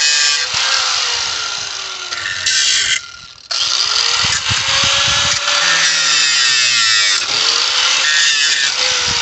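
Angle grinder with a cutting disc slicing through pallet nails: a loud whine with a hissing grind, the motor pitch dropping as the disc bites and rising again as it frees, several times. It cuts out briefly about three seconds in, then starts again.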